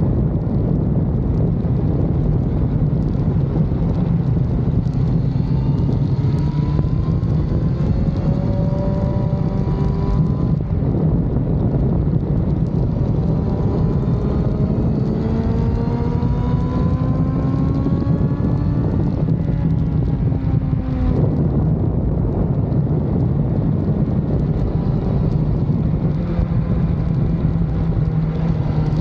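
BMW S1000RR sport bike's inline-four engine under heavy wind rush at speed, heard from onboard. Its pitch climbs in two long pulls, each cut off suddenly, about ten seconds in and again about twenty-one seconds in.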